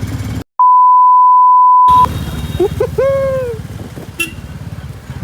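A loud single-pitch censor bleep about half a second in, lasting about a second and a half, with the rest of the sound cut out under it. Then the motorcycle engine's low pulsing comes back, with a short rising-and-falling voiced sound about three seconds in.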